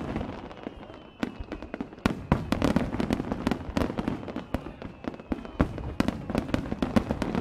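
Fireworks crackling: a dense run of quick, sharp pops that starts about a second in.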